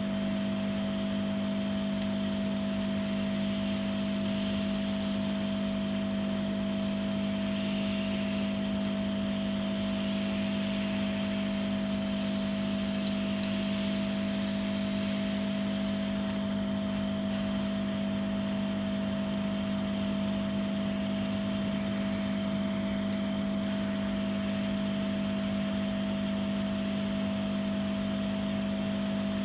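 Steady hum of a heat gun's fan motor running unchanged, with a constant low tone and a higher one, as it warms the adhesive under a phone's front panel.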